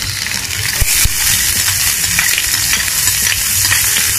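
Garlic and freshly added sliced onions sizzling in hot olive oil in a stainless steel pan as they are stirred, a steady hiss with a couple of sharp knocks about a second in.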